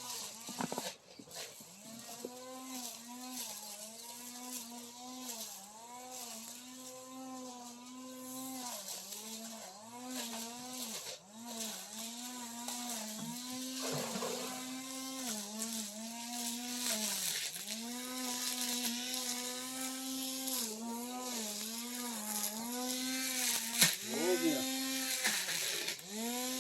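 Cordless electric brush cutter running, a steady motor hum whose pitch sags briefly over and over as the cutting head bites into the grass and weeds.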